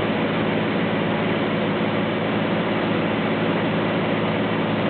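Light propeller airplane's piston engine droning steadily, heard from inside the cabin, with even pitch and level throughout.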